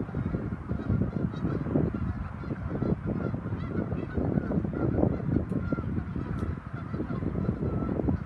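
Geese honking continuously.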